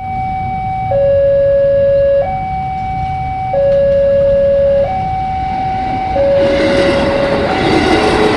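Railway level-crossing warning alarm sounding a slow two-tone high-low signal, each tone held for a little over a second. About six seconds in, the rumble of an approaching train rises under it.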